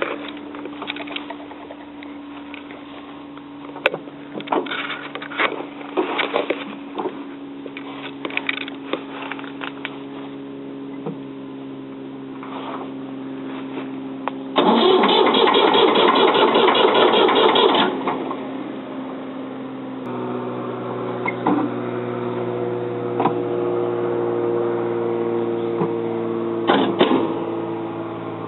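Ford 555 backhoe's diesel engine being started: for about the first half only a steady hum with scattered clicks and knocks is heard, then just past halfway the engine cranks loudly and roughly for about three seconds, and a couple of seconds later it catches and runs steadily, starting after more than two years unused.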